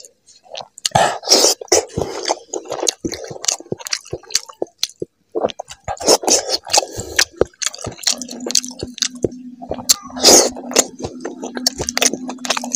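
Close-up wet chewing and lip-smacking of a person eating fatty pork fry and rice by hand: quick squishy mouth clicks and smacks in irregular runs. A steady low hum joins from about eight seconds in.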